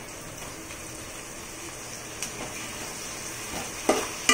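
Shallots, chillies and chopped tomatoes frying in oil and ghee in an aluminium pot, with a steady sizzle. Near the end a spatula knocks against the pot twice as the stirring starts.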